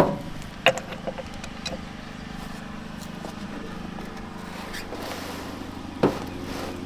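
A steady low mechanical hum, like a motor running, with a few sharp metallic clicks in the first couple of seconds and a single louder knock near the end.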